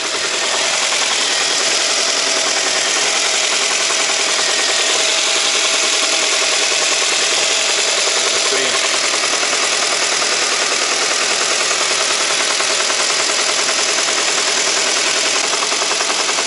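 Ford Focus II's 1.8 Duratec HE four-cylinder petrol engine idling very roughly, heard close with the bonnet open. It is shaking terribly, with an engine-fault warning lit, which the owner suspects may be a failed sensor.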